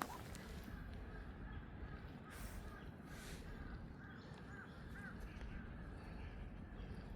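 Faint crows cawing, a run of short repeated calls, over a steady low rumble.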